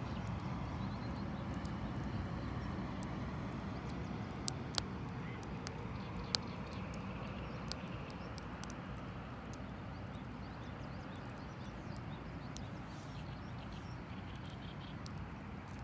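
Wood campfire crackling: a steady low rush with scattered sharp pops and snaps, the loudest three coming about four to six seconds in.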